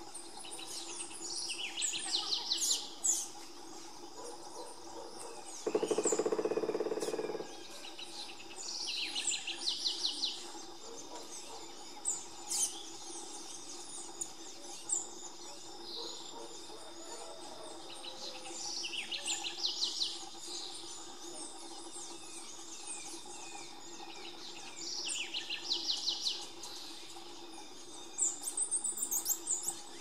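Wild birds calling: short bursts of rapid, high chattering notes come every few seconds, with fainter chirps between them. About six seconds in, a brief low rushing noise lasts a second and a half.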